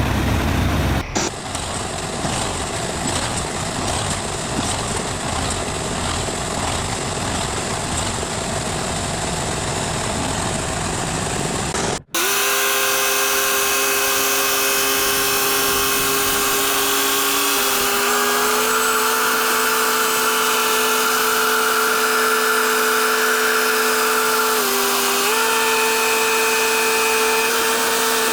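Machinery noise in two parts. First a dense, rough engine-like sound. Then, after a sudden cut about twelve seconds in, a steady machine whine made of several tones, which shifts in pitch in small steps a few times.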